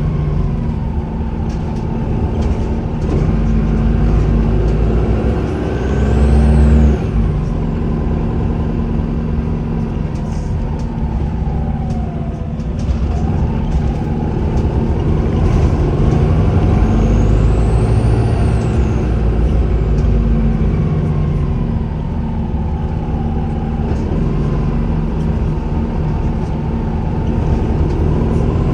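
Volvo B5LH hybrid bus with its four-cylinder diesel running under way. The turbocharger gives a high whistle that rises and falls twice, once about six seconds in and again past the middle, over the engine drone and a lower whine that glides up and down.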